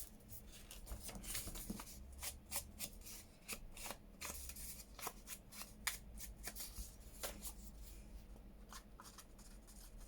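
Paper handled on a work surface: irregular crisp rustles and light taps, fewer toward the end.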